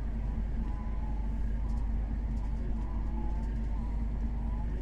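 Steady low drone of a vehicle's engine and road noise inside the cab, with a constant hum and faint wavering whistling tones on top.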